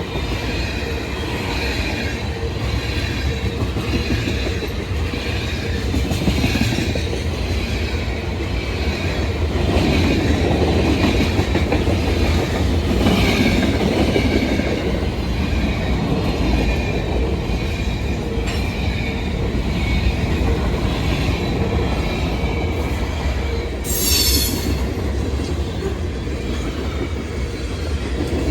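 Freight train cars rolling past, a steady rumble with thin high-pitched wheel squeal. A brief sharp high-pitched burst comes near the end.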